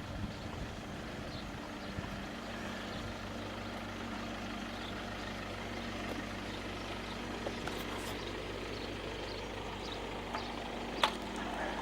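A vehicle engine idling steadily, with a single sharp click about eleven seconds in.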